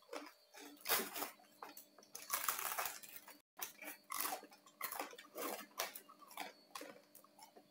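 Close-up chewing and crunching of crispy-skinned roast pork (saucu), in many irregular crackly bites.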